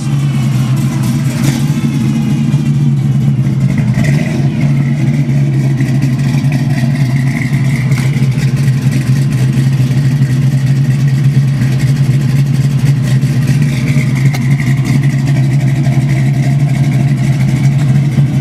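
Classic car's engine idling steadily through its dual exhaust, running smooth without missing a beat.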